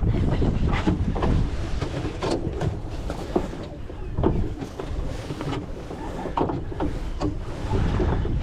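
Wind buffeting the microphone aboard a Gull sailing dinghy under way, with a steady low rumble and many short knocks and splashes from the hull and rigging.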